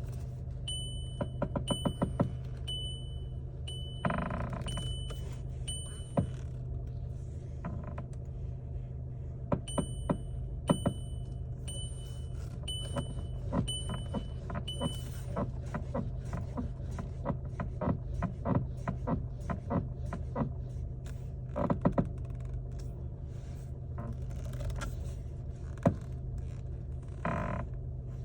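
VW Tiguan steering rack creaking and clicking over and over against a steady low hum; the creak is blamed on water that got into the rack. Two runs of an evenly repeating electronic beep sound over the creaks.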